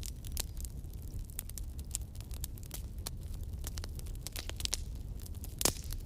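Campfire crackling: an irregular scatter of sharp pops and snaps over a low, steady rumble of burning, with one louder pop near the end.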